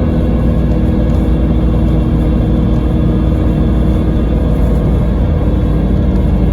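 Scania K320IB coach's diesel engine running steadily under way, a continuous low drone with an even pitch.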